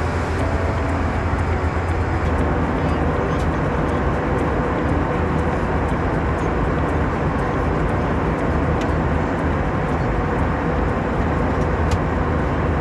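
Steady cabin noise of an Airbus A321-200 in cruise flight: a constant low rumble of engines and airflow, with a few faint clicks.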